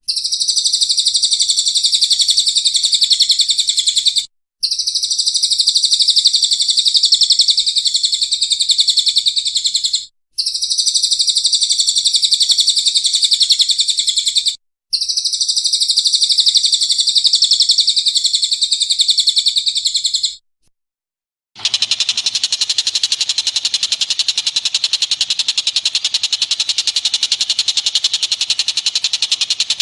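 Recorded bird song: four long, high, unbroken trills of about four to six seconds each, separated by short breaks. About three-quarters of the way through, a different rapid, buzzing chatter takes over and runs on steadily.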